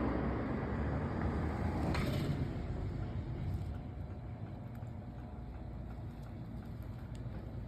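Low rumbling background noise that fades over the first four seconds, leaving a quieter steady hiss with a few faint clicks.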